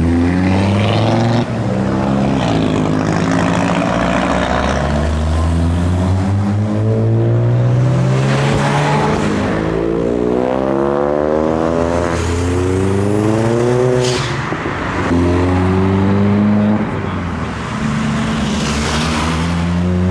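Several modified cars driving past one after another, their engines revving and rising in pitch as they accelerate away.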